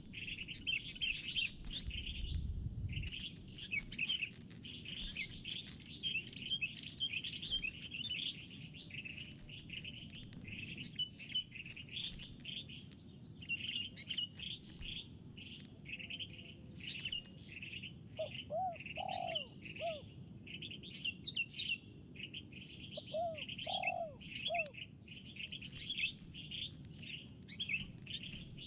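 Birds chirping in a rapid, unbroken stream of high notes, with two short runs of three or four lower, arching calls about two-thirds of the way through.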